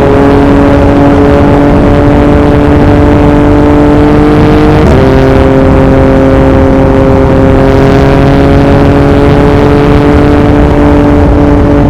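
2021 Yamaha MT-09's inline three-cylinder engine through an Akrapovic racing exhaust, pulling steadily with slowly rising revs. About five seconds in the pitch drops sharply at an upshift, then climbs again. Wind noise on the microphone runs underneath.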